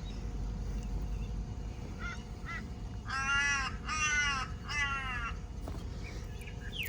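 A bird calling: two short faint calls, then three long, harsh caws in quick succession.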